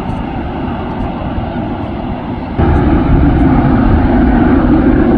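Jet airliner engine noise, a loud steady rumble that jumps abruptly louder about two and a half seconds in.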